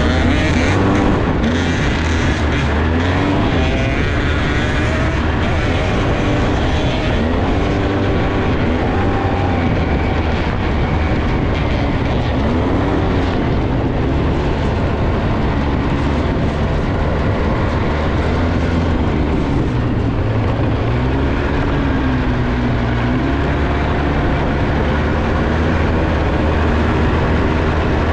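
Small off-road vehicle engine running under way, its pitch rising and falling as the throttle is worked, over a steady low rumble.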